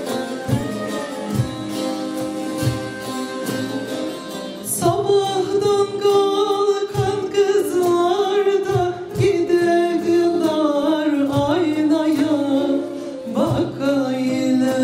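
Live Turkish folk music in the Black Sea style: a folk instrument ensemble plays with steady drum beats, and singing comes in about five seconds in over the accompaniment.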